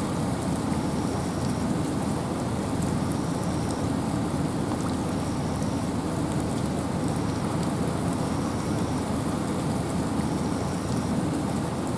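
Steady wind and rain in a forest: an even, unbroken rush weighted toward the low end, with scattered faint raindrop ticks. A faint short high note recurs about every two seconds.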